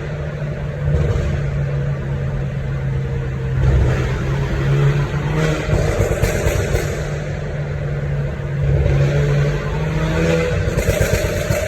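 VinFast Lux A2.0's 2.0 turbo four-cylinder running through a straight-through XEX sport exhaust with the catalytic converter removed. The engine idles and is revved in several short swells, the level rising and falling every couple of seconds.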